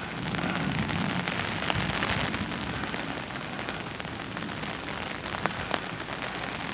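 Steady heavy rain falling during a thunderstorm, with a few sharp drop hits close by near the end. A low rumble of thunder swells through the first couple of seconds.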